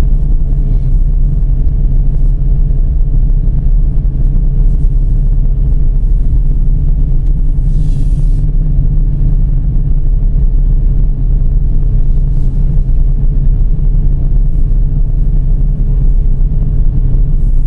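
Steady low rumble of a Dodge Charger driving, with engine hum and road noise, and a brief hiss about eight seconds in.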